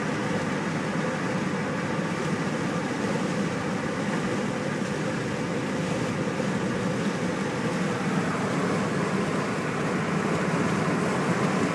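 Steady road noise of a car driving: an even rumble of tyres and engine that grows slightly louder near the end.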